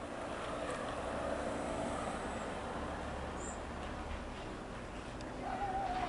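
Diesel multiple unit train running as it moves away, a steady low engine rumble with wheel and track noise.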